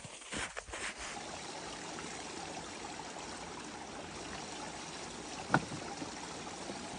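Steady rushing noise with one sharp knock about five and a half seconds in.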